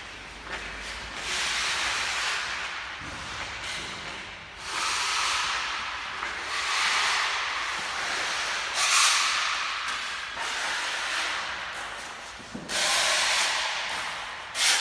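Hissing noise in repeated long bursts of a few seconds each, with brief dips between them and a sharper, louder burst near the end.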